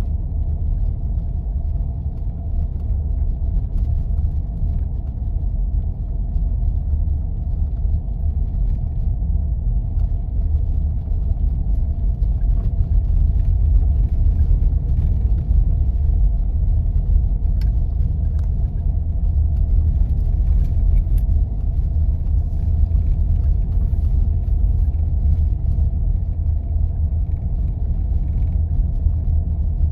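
A 4x4 vehicle driving on snow-covered roads: a steady, deep rumble of engine and tyres.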